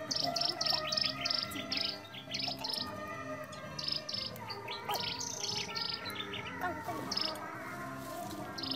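A bird chirping in quick runs of short high notes, several a second, some runs stepping down in pitch, over steady background music.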